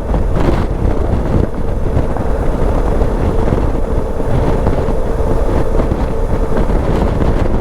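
Wind buffeting the microphone over the steady running of a Suzuki V-Strom 650's V-twin engine while riding.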